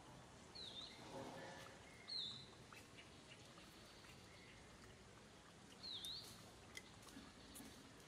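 Faint outdoor ambience with a small bird chirping three times, each chirp a quick high dip-and-rise.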